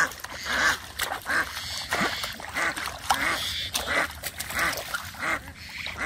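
Ducks quacking in a steady run of short calls, about two or three a second.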